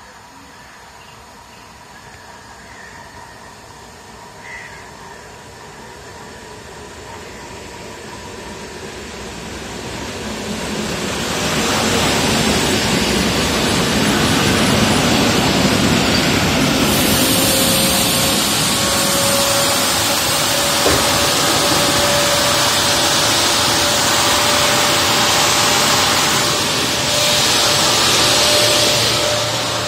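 PolRegio EN57 electric multiple unit pulling into the platform. Its running noise grows louder over the first ten seconds or so, then turns into a loud, steady rumble and hiss as it comes alongside. A steady whine runs through the second half.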